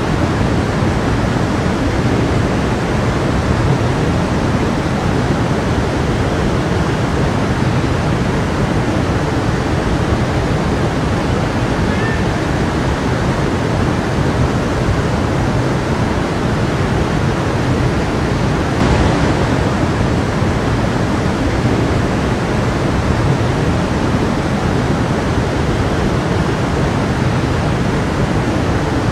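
A creek's water rushing and splashing steadily over stones, briefly a little louder about two-thirds of the way through.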